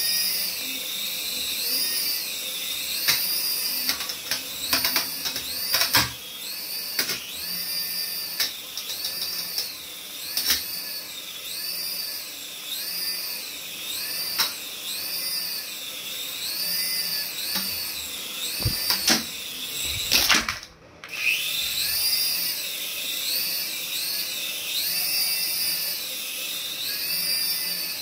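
High-pitched whine from a remote-control toy, rising and falling about once a second, with scattered knocks and clicks; it cuts out briefly about twenty seconds in.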